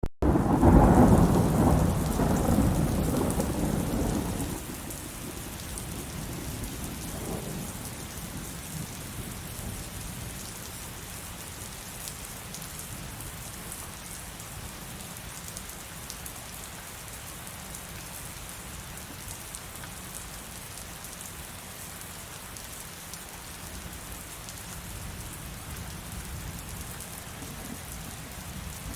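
A thunderstorm: a loud rumble of thunder in the first four seconds or so dies away under steady heavy rain, with a fainter low rumble later.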